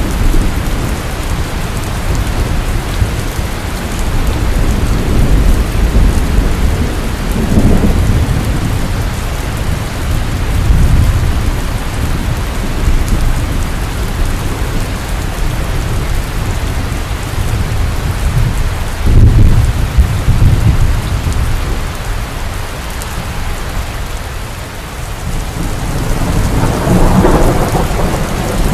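Heavy rain falling steadily, with thunder rumbling in several long rolls; a sharper clap of thunder about two-thirds of the way through, and another swell of rumbling near the end.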